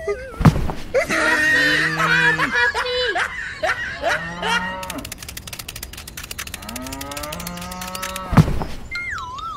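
Cattle mooing, several drawn-out calls, mixed with cartoon sound effects: a quick, squeaky 'ah-ah' voice laughing early on and a sharp thud about half a second in and again near the end.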